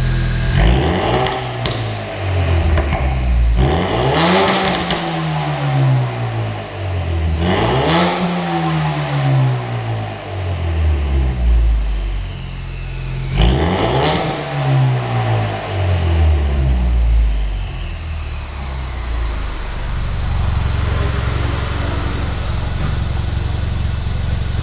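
Ford Mustang 2.3T's turbocharged four-cylinder engine revved through an MYS electronic-valve aftermarket exhaust: idling, a couple of small throttle blips, then three big revs that climb and fall back, a smaller one, and back to a steady idle.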